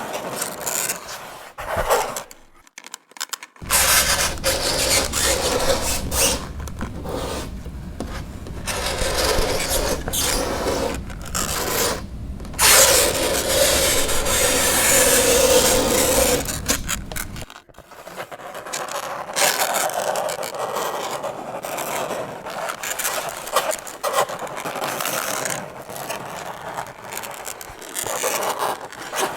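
Fingernails scraping across a chalkboard in a series of harsh scratching strokes, broken by short pauses. A low rumble runs under the scraping from about four seconds in to about seventeen seconds, and the loudest, longest scrape comes just past the middle.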